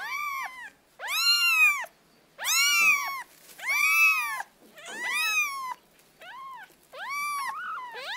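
Domestic cat meowing over and over, about seven meows roughly a second apart, each rising and then falling in pitch. The last meow, near the end, is longer.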